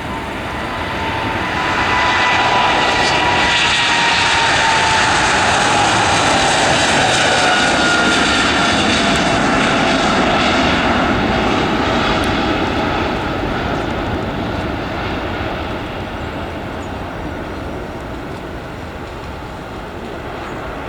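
Large aircraft's engines passing close by: the noise swells, stays loud for several seconds, then slowly fades, while a whine slides down in pitch as the aircraft goes past.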